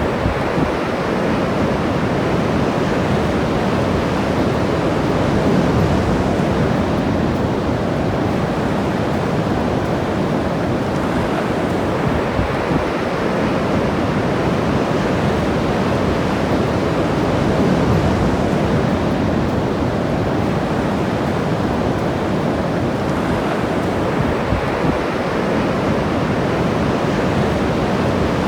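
Ocean surf breaking on the shore, a steady rush that swells and eases every few seconds, with some wind on the microphone.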